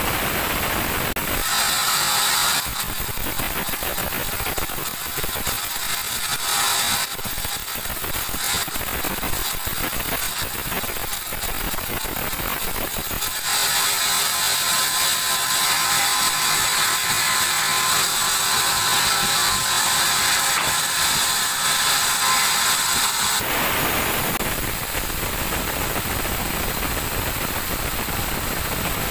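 Sawmill band saw cutting through a teak log: a harsh, high-pitched sawing sound that starts about a second and a half in, grows sharper about halfway through, and drops back to the saw's steady running noise near the end.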